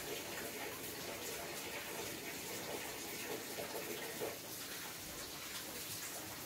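Steady rain falling, an even hiss with faint scattered patter.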